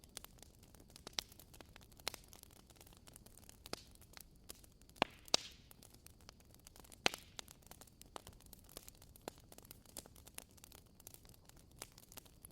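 Burning firewood crackling softly, with irregular small snaps and a few louder pops over a faint hiss.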